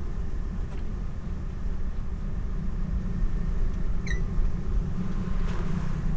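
Boat motor running steadily with a low rumble. A short high chirp sounds once about four seconds in.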